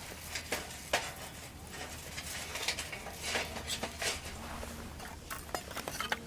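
Irregular light clicks, taps and scrapes of handling, with no steady rhythm.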